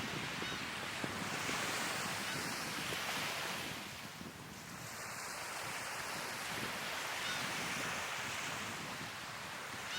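Sea waves breaking and washing on the shore: a steady rush of surf that ebbs about four seconds in, then builds again.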